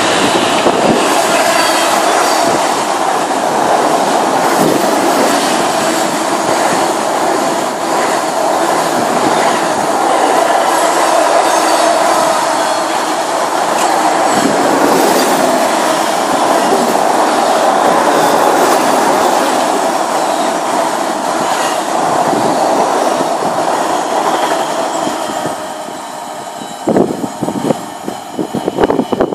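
Loaded intermodal container wagons of a freight train running through a station at speed: a steady, loud rolling rumble and clatter of steel wheels on the rails. An electric multiple unit passes on the adjacent track at the start. Near the end the noise drops away as the train recedes, and a few sharp irregular bumps are heard.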